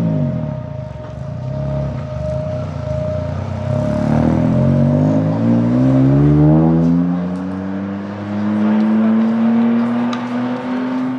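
Toyota hydrogen-combustion engine running, low at first, then its pitch rising steadily from about four seconds in and holding higher until it cuts off at the end. It sounds much like an ordinary petrol engine.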